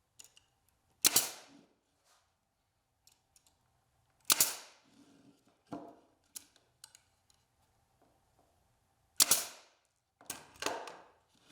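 An 18-gauge brad nailer firing brad nails into cedar roof boards: a sharp shot about a second in, another at about four seconds, a lighter one soon after, one near nine seconds, and two close together near the end.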